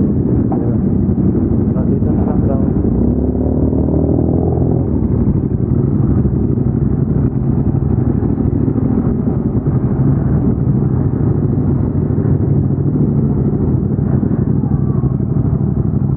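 Ducati Diavel 1260S's V-twin engine running steadily at low revs, with a brief shift in pitch about four seconds in.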